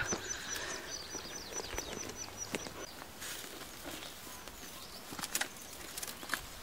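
A small bird calls a rapid series of high, thin chirps, about four a second, which stops about three seconds in. Near the end come a few sharp snaps and crackles of footsteps through dry brush.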